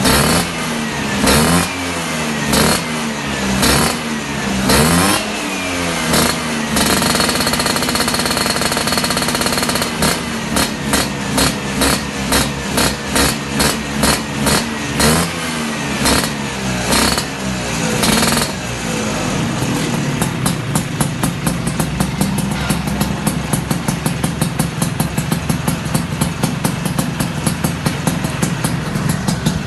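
Vespa smallframe scooter's two-stroke single-cylinder engine blipped repeatedly through a custom aftermarket exhaust, each blip rising and falling in pitch. It is held at high revs for a few seconds, then blipped again at an even pace of about two a second, and in the last third it runs steadily with a fast, crackly popping beat.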